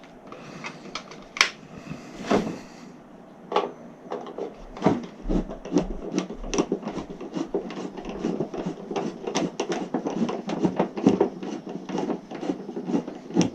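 Metal electrical breaker panel cover being worked loose and removed by hand: a long run of quick clicks, knocks and rubbing, a few separate knocks at first and then close-packed from about four seconds in.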